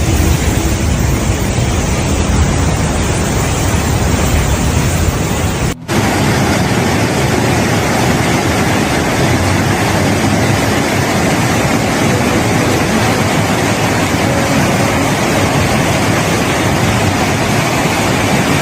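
Loud, steady rushing roar of torrential floodwater, with no distinct tones or beats. It breaks off for an instant just before six seconds in, then carries on unchanged.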